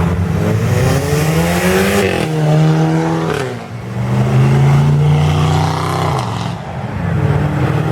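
Loud modified muscle car engine revving as the car pulls away: the engine note climbs for about two seconds, drops back, and rises and falls again about six seconds in.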